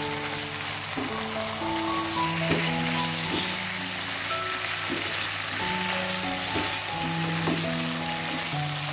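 Raw chicken pieces and spice paste sizzling in hot oil in a frying pan while a spatula stirs them, with light knocks of the spatula against the pan every second or so.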